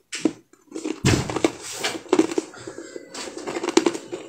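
Close-up chewing and mouth sounds: a quick run of sharp clicks, smacks and crackly crunches, with a heavier thump about a second in.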